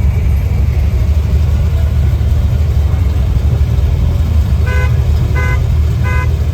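Car engine idling with a steady low rumble; near the end a car horn gives three short toots about two-thirds of a second apart.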